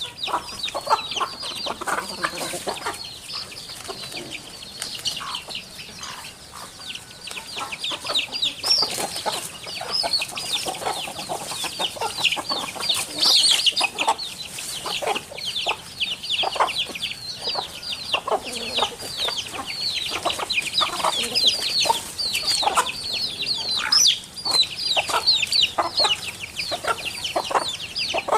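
Chickens clucking, under a dense, unbroken chorus of quick, high chirps that drop in pitch.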